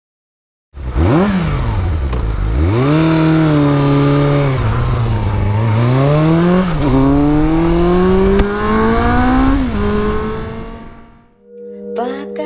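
Motorcycle engine revved sharply once, then accelerating hard, its pitch climbing in long rises and dropping suddenly at two gear changes before it fades away. Music starts just before the end.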